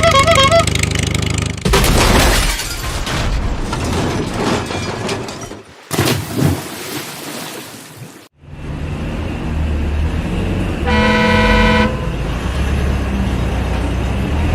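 Cartoon vehicle sound effects: a low engine rumble with one steady horn honk of about a second, after a stretch of noisy clattering earlier on.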